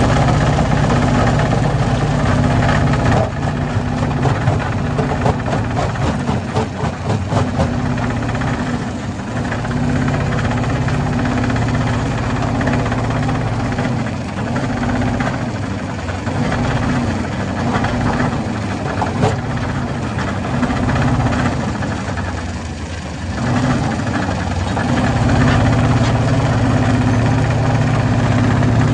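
Hammer-type stone crusher running with a steady low drone. Between about three and nine seconds in, there is a run of sharp clattering knocks, like rock being struck and broken.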